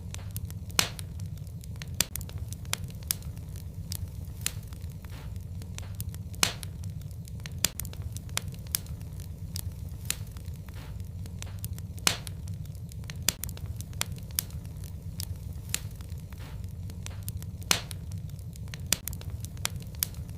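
Wood fire burning in a fireplace: a steady low rumble of flame with irregular sharp crackles and pops, a few of them louder than the rest.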